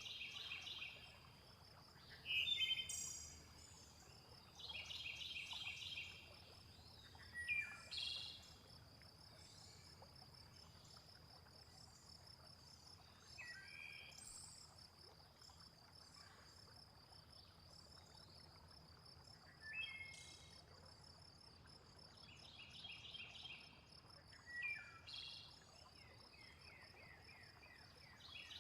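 Faint nature soundscape: a high, steady insect trill runs throughout while birds call every few seconds, some with short trilled phrases and some with quick downward-sweeping chirps.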